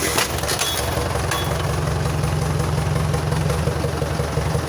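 Ford tractor engine running steadily with a pulsing low drone, lifting a chained load; the engine note grows heavier about a second and a half in.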